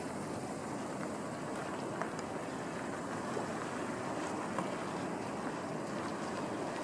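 Steady rushing noise of a motor vessel under way: engine and water wash along the hull, with no pitch changes and a few faint ticks.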